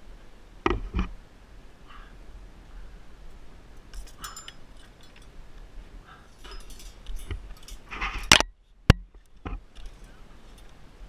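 Scattered clinks and knocks of handled metal gear. The loudest knock comes a little past eight seconds, followed by a sharp click.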